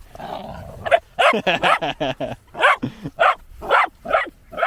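A dog barking in a quick series of about ten short barks, starting about a second in: excited play barking during a game over a toy.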